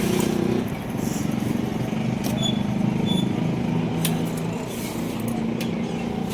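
A motor vehicle engine running steadily, with a few sharp clicks over it.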